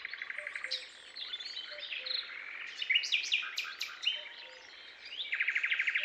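Several birds chirping and calling over a soft steady hiss of background ambience: short falling notes and quick chirps, with a fast buzzy trill at the start and again about five seconds in.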